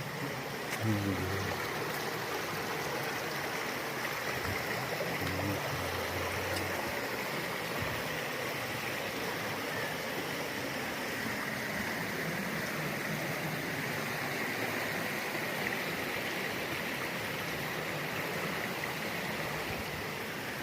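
Rainforest river flowing steadily over rocks, an even rushing of water.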